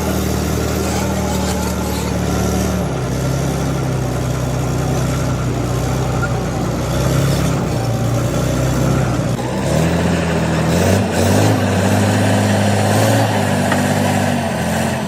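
Bulldozer diesel engine running steadily, its pitch shifting a few times as the revs change, about 3 seconds in and again around 10 seconds in.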